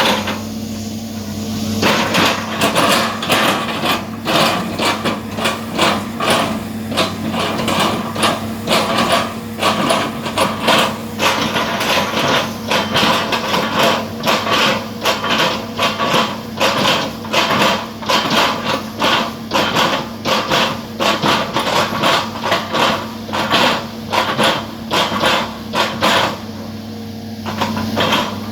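Excavator engine running with a steady hum under rapid, uneven knocks and cracks, about two to three a second, as the bucket chops up a felled palm oil trunk. The knocking stops for the first two seconds and again briefly near the end, leaving only the engine.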